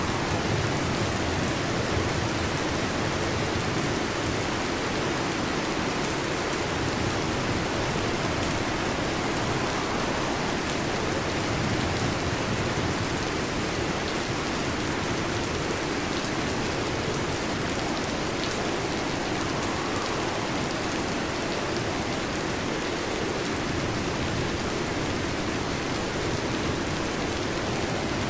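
Heavy rain drumming steadily on a metal roof, a dense, even patter of drops with no let-up.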